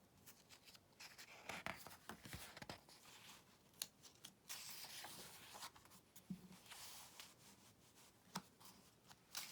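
Faint rustling and several light clicks of a paperback picture book's pages and cover being handled.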